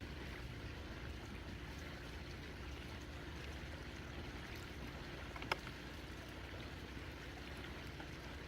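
Steady rush of flowing stream water, with one sharp click about five and a half seconds in.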